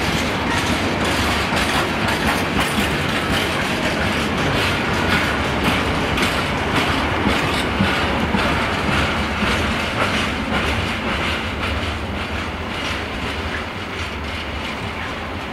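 Freight train of open steel wagons rolling past: a steady rumble with repeated clacking of wheels over rail joints, fading over the last few seconds as the end of the train draws away.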